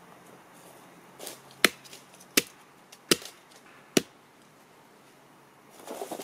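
Firewood being chopped: four sharp strikes of a blade into wood, about three quarters of a second apart, with lighter knocking of wood near the end.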